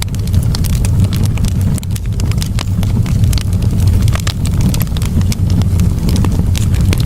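Campfire burning, wood crackling with many irregular sharp pops over a steady low rumble.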